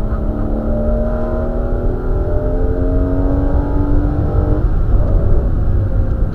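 Porsche Boxster's flat-six engine heard from inside the cabin, pulling hard with its note climbing steadily for about four and a half seconds, then falling away as the car goes into a corner. A heavy low road and wind rumble runs underneath.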